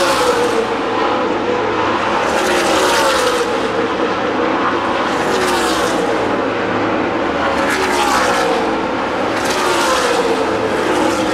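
NASCAR Nationwide Series V8 stock cars passing at racing speed, one after another about every two and a half seconds, each engine note dropping in pitch as the car goes by.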